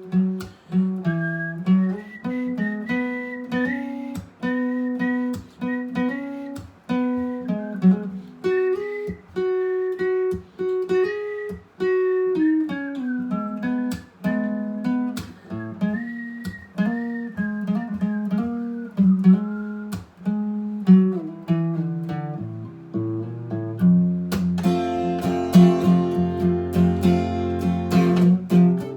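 Acoustic guitar playing an instrumental break: a picked melody of single notes over chords, changing to fuller strummed chords about 24 seconds in.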